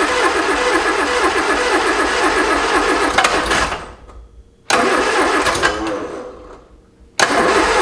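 Starter motor cranking the long-dormant 1275 cc A-series four-cylinder engine of a 1973 MG Midget in three bursts. The cranking stops a little under four seconds in, cuts in again about a second later and fades away, then starts once more near the end. The engine is not yet running on its own.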